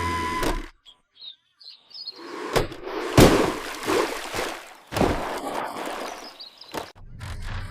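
A short music sting cuts off, then birds chirp over an outdoor background. Several thuds and bursts of rustling noise follow, the loudest a little past the middle.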